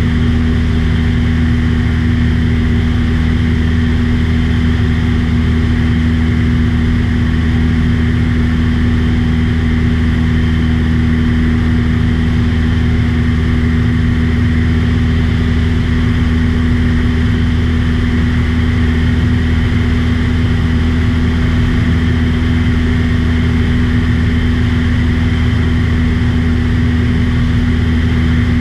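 Aircraft engine running steadily in flight: a loud, even drone with a strong low hum and a steady tone, with no change in pitch.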